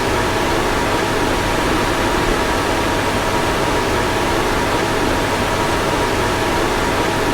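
Car fan running steadily: an even rush of air with two faint steady whines in it.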